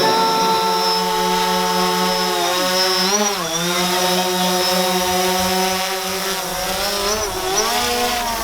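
DJI Phantom 4 quadcopter's propellers buzzing in flight, the pitch dipping briefly twice as the motors slow and speed up again.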